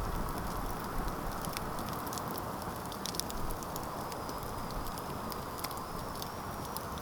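Campfire crackling, with frequent sharp pops and snaps over a steady hiss of the burning fire. A faint, thin high whistle comes in about four seconds in.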